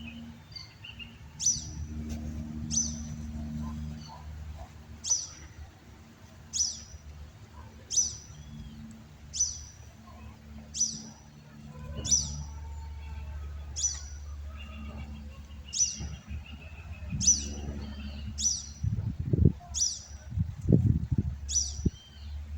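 A bird repeating one short, sharp, high chirp about every second and a half, over a low steady hum. A few dull low thumps come near the end.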